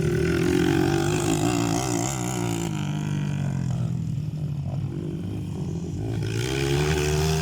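Motocross bike engines revving, the pitch wavering up and down, dropping back about halfway through and rising again near the end.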